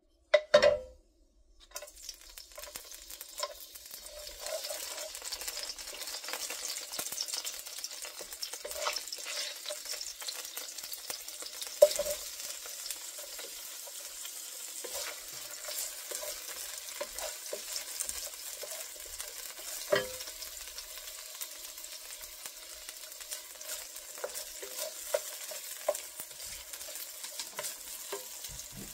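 Sliced onion, ginger and tomatoes sizzling as they fry in hot olive oil in a nonstick wok, stirred with a wooden spatula that scrapes the pan. After a brief loud clatter in the first second, the sizzle starts about two seconds in and runs steadily, with a few sharp knocks of the spatula against the pan.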